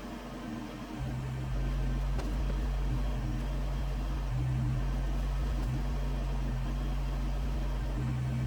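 Kubota BX23S tractor's three-cylinder diesel engine running with a steady low hum, a little quieter in the first second before settling at a constant level.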